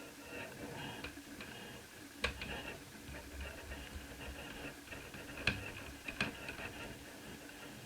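Scattered small clicks and taps of a screwdriver and screws on a laptop's plastic and metal parts as the motherboard is unscrewed from the lower case, three sharper clicks standing out among lighter ticks.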